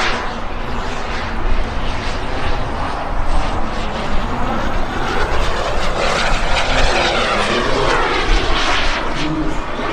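Gas turbine of a Carf Mephisto V2 radio-controlled jet in flight, its whine and jet noise rising and falling in pitch as it makes passes, one ending at the start and another in the middle.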